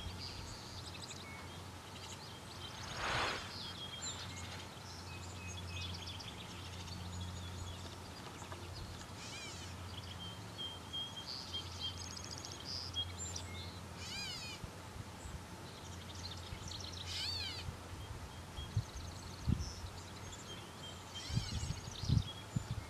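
Several birds singing and calling: short chirps, quick trills and rapidly repeated notes scattered throughout, over a steady low hum, with a few low thumps near the end.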